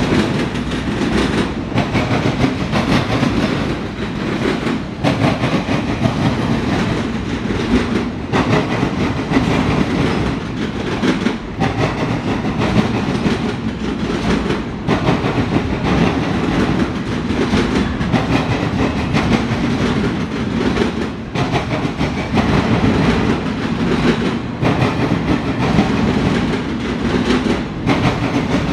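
Freight train of multilevel autorack cars rolling steadily past, the wheels running on the rails in a loud, continuous rumble that dips briefly every second or two as the cars go by.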